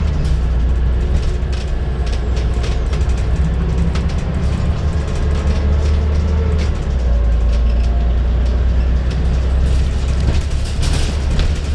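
Scania N94UD double-decker bus heard on board, its engine drone and ZF automatic gearbox whine under way. The whine rises, then the note drops about seven seconds in, with light rattles and clicks from the body throughout.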